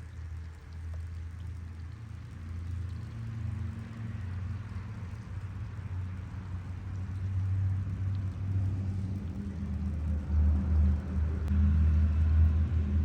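Low, steady rumble with a faint hum in it, growing louder over the last few seconds.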